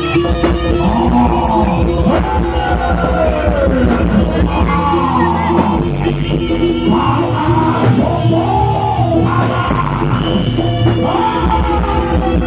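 Live jaranan accompaniment music played loud and without pause: steady held tones under a melody that slides and wavers up and down in short phrases.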